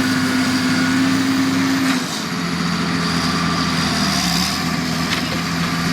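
Claas Challenger 55 crawler tractor's diesel engine running steadily while mole ploughing; its note drops to a lower pitch about two seconds in and holds there.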